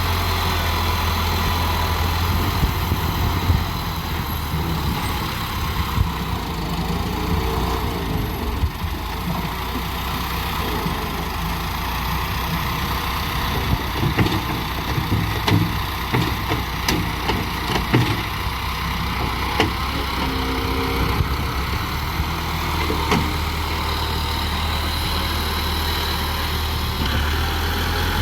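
Heavy diesel machinery engine running steadily at a low rumble, with a run of sharp knocks and clatter about halfway through.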